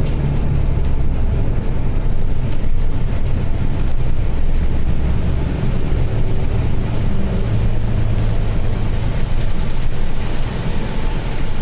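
Volvo B8 bus engine and road noise heard from inside the cabin while the bus is under way: a steady low drone that shifts slightly in pitch as the bus changes speed, with a few light rattles.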